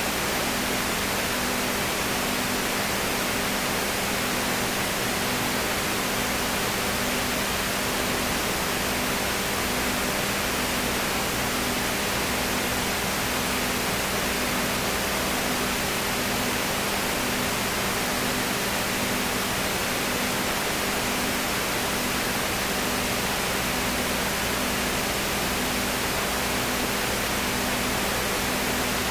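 Steady hiss with a low hum underneath, one hum tone pulsing about once a second.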